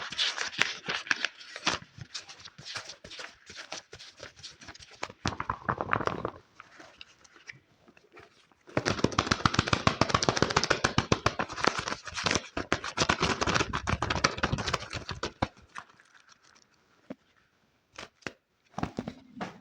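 Fast ASMR tapping and scratching on objects: rapid runs of crisp taps and scratchy strokes. The sound pauses for a couple of seconds about a third of the way in, returns louder and denser, then dies away to a few stray taps near the end.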